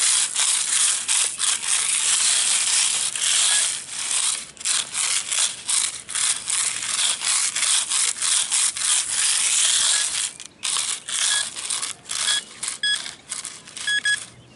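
A hand digger scraping and cutting into soil, a long run of harsh rasping strokes that thin out into separate scrapes about ten seconds in. Short high electronic beeps from the metal-detecting gear come several times near the end as the target is located.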